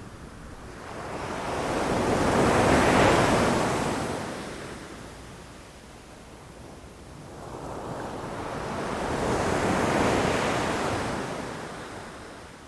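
Ocean waves breaking against rocks. Two waves swell up and wash in, the first loudest about three seconds in and the second about ten seconds in, with a lower rush of surf between them.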